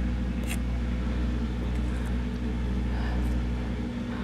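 Steady low electrical hum of a running appliance motor, with one faint click about half a second in.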